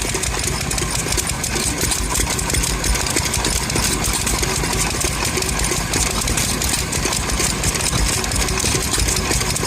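A stationary engine running steadily at a constant speed.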